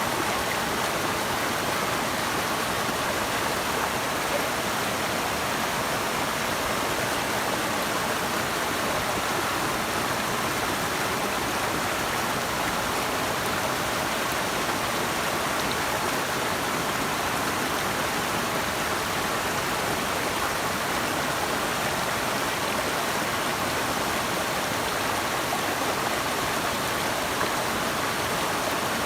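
Steady rush of running water, even and unbroken, brightest in its mid and upper hiss.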